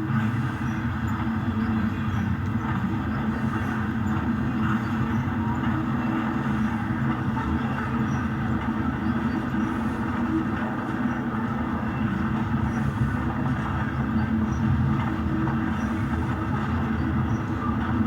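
HO scale model train running on its track, a steady, even running sound that holds throughout.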